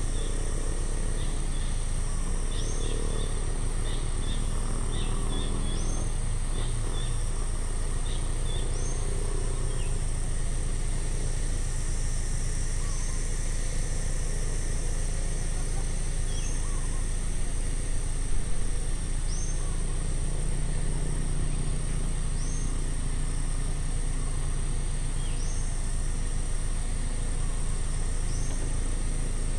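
Outdoor ambience: a bird repeating a short rising call about every three seconds, with a flurry of short chirps in the first third, over a steady high insect-like drone and a constant low rumble.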